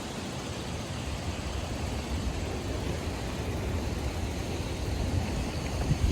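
Wind buffeting the microphone: a rushing, low rumbling noise that swells toward the end.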